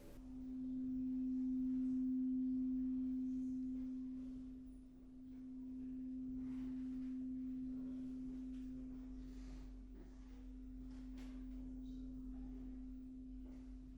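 A crystal singing bowl sounding one steady pure tone, tuned to the frequency of a colour. The tone swells and fades in slow waves: loudest about two seconds in, dipping near five seconds, then swelling again more softly.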